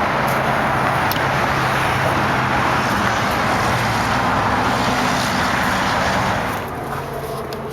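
Steady motor-vehicle noise: a low engine hum under a broad rush, which eases off about six and a half seconds in.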